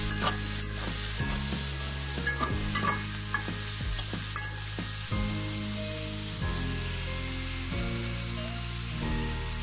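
Bitter gourd slices and shrimp sizzling in hot oil in a metal wok, with a spatula scraping and clicking against the pan as the pieces are turned over during the first half. Soft background music with a low bass line runs underneath.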